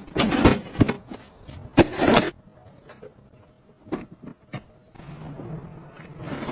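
Handling sounds: a series of sharp clicks and knocks with short rustling scrapes in between, and a faint steady hum near the end.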